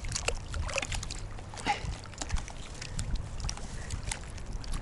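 Strong wind buffeting the microphone in a steady low rumble, with scattered light clicks and knocks.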